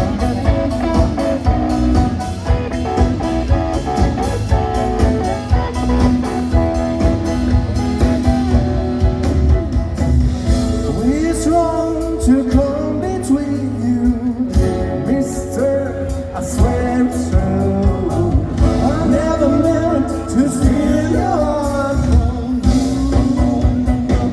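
Rock and roll band playing with guitar, bass and drums, with a singer's voice coming in about eleven seconds in.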